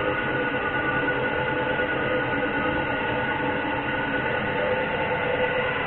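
Airbrush air compressor running steadily, a constant motor hum and whine over a hiss of air.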